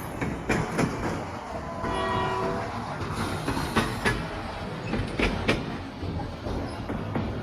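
Train sound effect: a train horn sounds for about half a second, roughly two seconds in, over the rumble and irregular clacking of rolling wheels.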